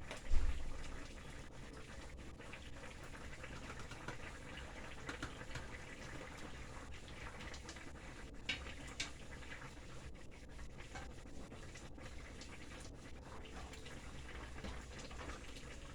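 Faint kitchen sounds as sauce is added to a cooking pot: a dull low bump about half a second in, then soft liquid and handling noises with a couple of small clicks.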